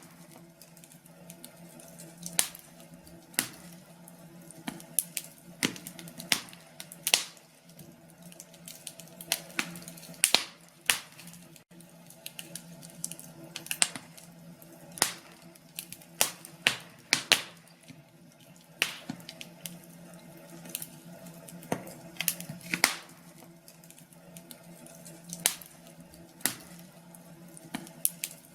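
Wood fire crackling in a fireplace: irregular sharp pops and snaps, some close together, over a steady low hum.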